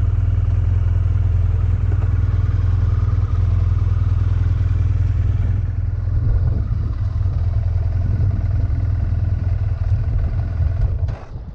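A BMW F800ST motorcycle's parallel-twin engine running steadily with an even low drone. The sound drops away sharply near the end.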